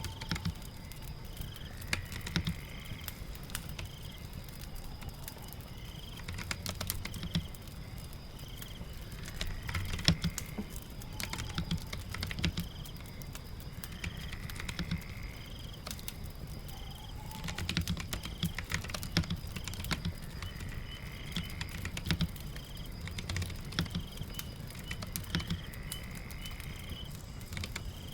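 Keyboard typing in irregular runs of key clicks over a steady patter of rain. Short high chirps repeat about once a second in the background.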